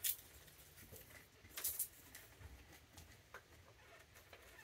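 Faint scratching and clicking of raccoons foraging for treats on a deck, with two louder scuffs: one at the start and one about a second and a half in.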